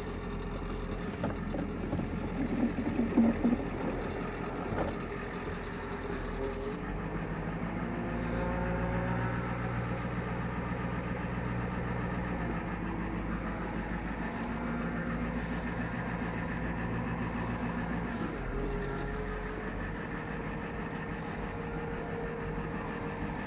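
The 1994 Ford F Super Duty's 7.3 IDI diesel engine running as the truck drives slowly, its note rising and falling with the throttle. A few louder knocks come about two to three seconds in.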